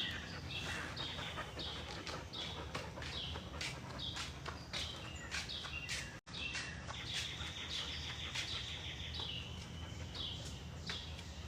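A songbird calling outdoors: a long run of short, high chirps that each drop in pitch, about two a second, over faint background hiss. The sound cuts out briefly about six seconds in.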